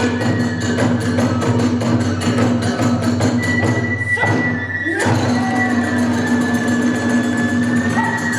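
Kagura hayashi ensemble playing: rapid, even drum and hand-cymbal strikes, with a flute holding a long high note from about halfway through.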